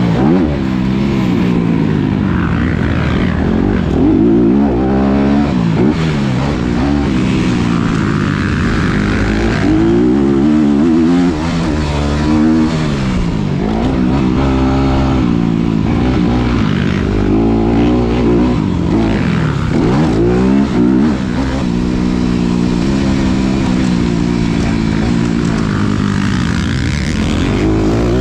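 2019 Honda CRF250RX's single-cylinder four-stroke engine revving up and down again and again as the dirt bike is ridden hard, the throttle opening and closing every second or two.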